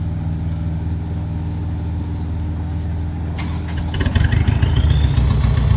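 Vehicle engine running steadily, then a few sharp clicks and knocks about three and a half seconds in. The engine then gets louder as the vehicle pulls off, with a whine that rises in pitch.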